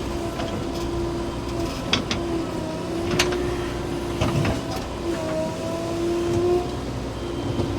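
JCB 3DX Plus backhoe loader's diesel engine and hydraulics running under load, a steady whine that shifts slightly in pitch now and then. A few sharp metallic clanks come about two, three and four seconds in.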